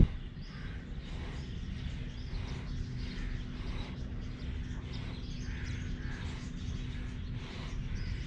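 Outdoor ambience: a steady low rumble with a faint hum, small birds chirping faintly throughout, and a brief thump at the very start.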